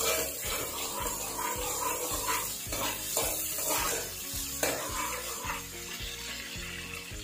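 Garlic paste sizzling in hot oil in a metal karahi, with a slotted metal spoon scraping and stirring in several strokes that thin out near the end, over background music with a steady beat.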